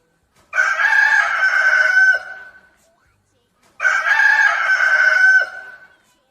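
An animal call sound effect played twice, each call about two seconds long, with a steady high tone that slides down briefly at the end.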